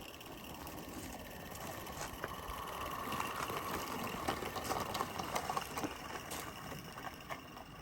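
Small live-steam model locomotive running on a 16mm-scale garden railway: a steady hiss with many irregular light clicks, growing louder toward the middle and fading near the end as it passes.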